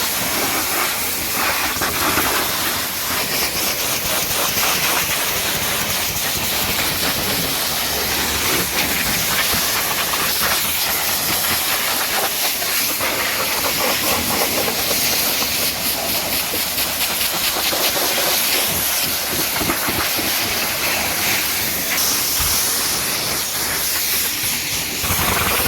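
Pressure washer's high-pressure water jet spraying, a loud steady hiss that starts abruptly and runs on without a break.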